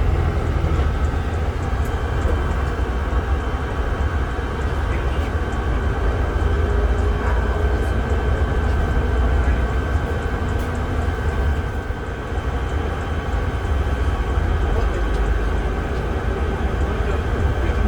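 Mercedes-Benz O307 bus under way, heard from inside the passenger cabin: a steady low drone of engine and road noise with a thin steady whine above it.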